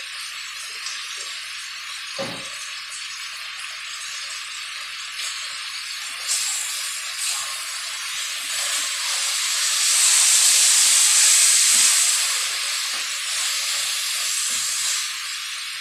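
Chicken pieces sizzling in a wok over a gas flame, the sizzle swelling louder for a couple of seconds past the middle. A spatula turning the chicken gives scattered scrapes and taps against the pan.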